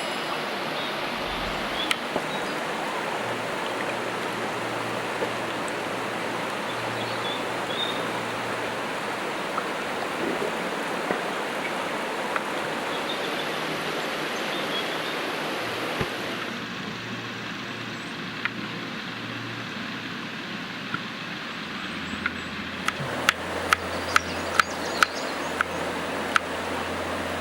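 Steady rushing of a stream or running water. Near the end comes a run of sharp clicks, about two to three a second.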